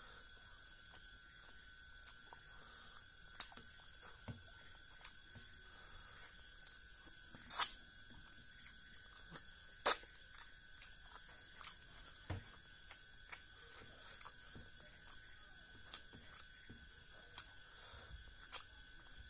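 Close-miked eating sounds of a person eating rice and fish curry by hand: scattered wet chewing clicks and lip smacks, with two louder sharp smacks a little past halfway, over a steady high-pitched background hum.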